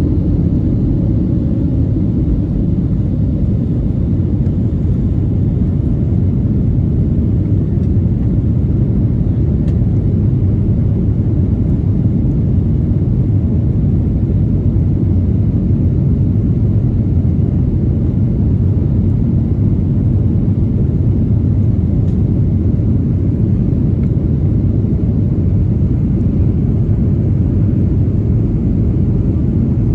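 Steady low rumble of a Boeing 737-900ER's CFM56-7B jet engines and airflow, heard inside the passenger cabin.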